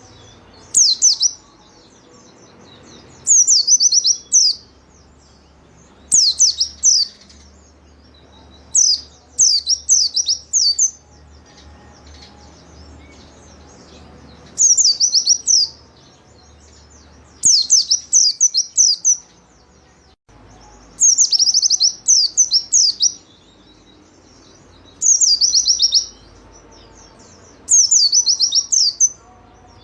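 A white-eye (pleci) singing vigorously: short, high, rapid phrases of quick falling notes, about ten bursts, repeated every two to three seconds.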